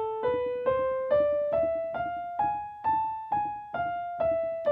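Piano playing the A harmonic minor scale in single notes, about two a second, climbing one octave from A with the raised G sharp near the top, then starting back down.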